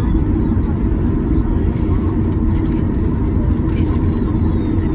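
Cabin noise of a Boeing 737-800 taxiing, with its CFM56-7B engines at idle: a steady low rumble and a faint steady whine.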